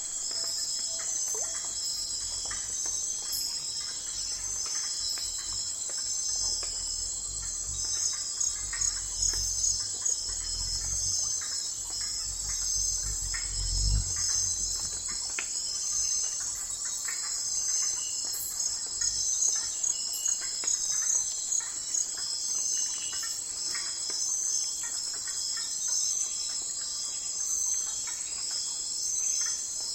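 Night forest insect chorus: a dense, steady high trilling with pulsing calls layered over it. A low rumble builds through the middle and ends in a dull thump about fourteen seconds in.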